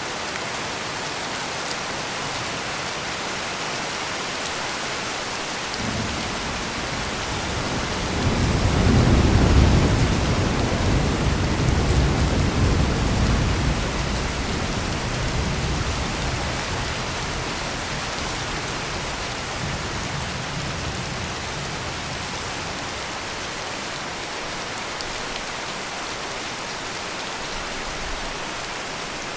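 Heavy rain falling steadily, with a roll of thunder that starts a few seconds in, swells to its loudest near the middle and rumbles away over about fifteen seconds.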